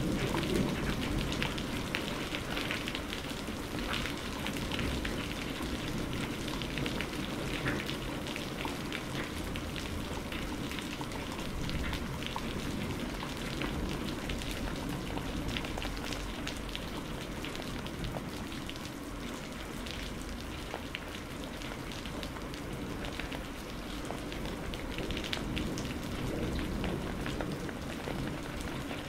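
Steady rain, with many individual drops striking close by as frequent sharp ticks over an even hiss. No thunder in this stretch.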